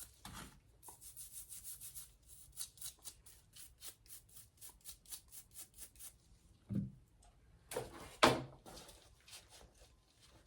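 Brake pads being scrubbed clean with Simple Green in quick rhythmic strokes, about four or five a second, followed by two louder knocks about seven and eight seconds in.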